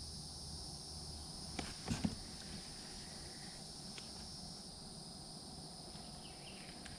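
Steady chorus of insects such as crickets, a high even drone. About two seconds in there is a brief cluster of knocks, the loudest sounds, and a faint click or two follow later.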